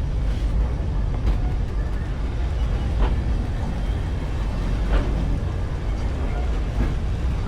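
Railway carriage running along the track with a steady low rumble, a light knock coming about every two seconds.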